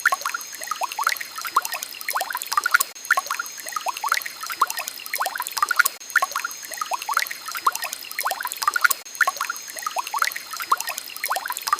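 Gentle flowing water trickling and bubbling, dense with small quick rising plinks of bubbles and droplets over a steady wash.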